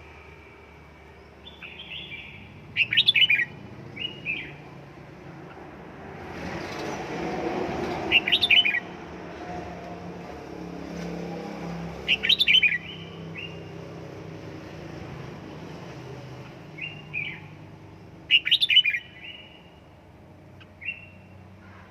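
Red-whiskered bulbul singing: four loud bursts of quick, rippling high notes a few seconds apart, with shorter, softer calls in between. A low rushing noise swells and fades about a third of the way in.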